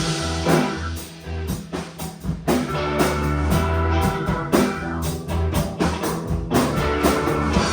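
A band playing rock music: drum kit keeping a steady beat under bass and guitar, with no singing.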